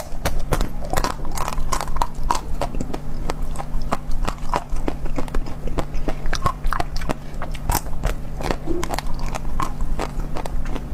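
Close-miked eating: biting and chewing, with a dense, irregular run of sharp mouth clicks and smacks several times a second over a faint steady hum.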